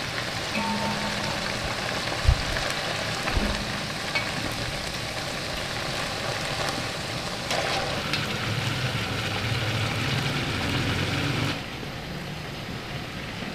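Onion and spice paste sizzling in a hot pan as boiled mutton pieces are ladled in, with a steel slotted ladle clinking against the pot twice. The sizzle drops quieter near the end.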